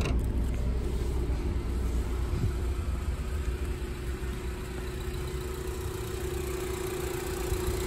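2015 Honda Civic Si's 2.4-litre K24 four-cylinder engine idling steadily with the hood open, a steady low hum with a faint tone that grows stronger over the second half.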